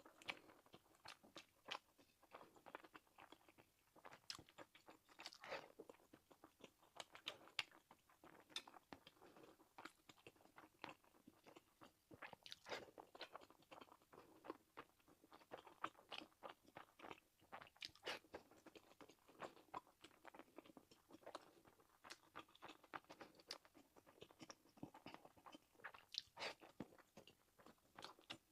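Close-miked chewing and eating of egg fried rice with sausage: soft, irregular wet mouth clicks and smacks, several a second.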